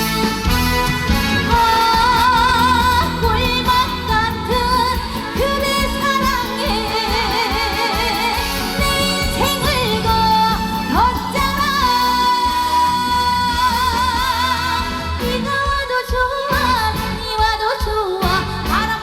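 A woman singing a trot song live over amplified accompaniment, holding long notes with a wide vibrato.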